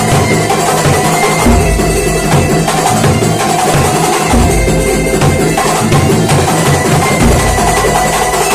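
Kuntulan percussion music: hand-played frame drums and a deep bass drum keep up a busy, driving rhythm, with a few held tones above it.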